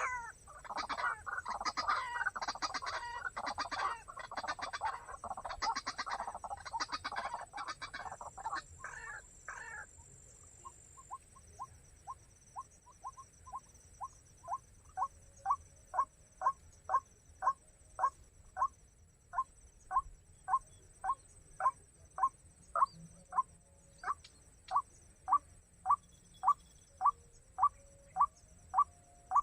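White-breasted waterhen calling: about ten seconds of loud, harsh, rapid calling, then a long run of short single notes, about two a second, starting faint and growing louder.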